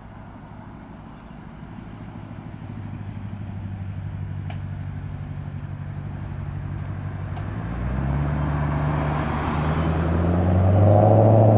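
Mercedes-Benz 500's V8 burbling at low revs as the car rolls closer, growing steadily louder. The engine note steps up about eight seconds in.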